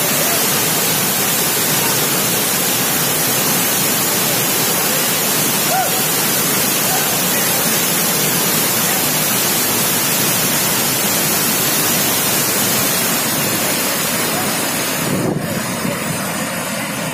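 Waterfall: falling water making a steady, loud rushing noise, with the high hiss dropping away shortly before the end.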